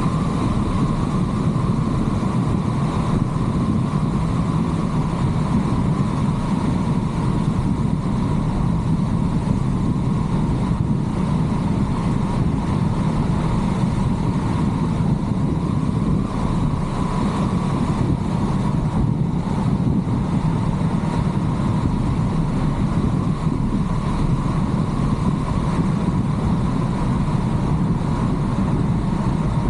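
Car driving along a road: steady engine and tyre road noise that holds an even level throughout.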